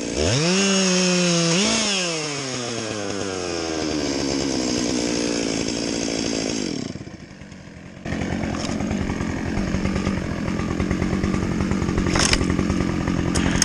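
Chainsaw engine revving twice, then falling steadily in pitch for several seconds as it winds down and drops off. About eight seconds in, a rougher, lower engine sound starts, with a few sharp clicks near the end.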